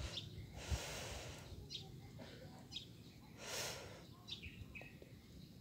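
Small birds giving short high chirps, one every second or so, against faint outdoor background noise, with two brief hissing swells of noise, one about a second in and one about three and a half seconds in.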